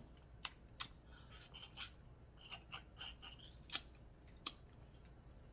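Close-miked eating sounds from a seafood boil in sauce: wet mouth smacks and chewing, with several sharp clicks spread through.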